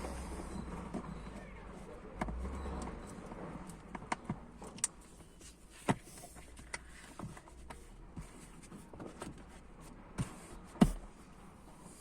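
Scattered clicks and knocks of parts being handled and fitted in a car's interior, with a dull low thud about two seconds in and one louder knock near the end.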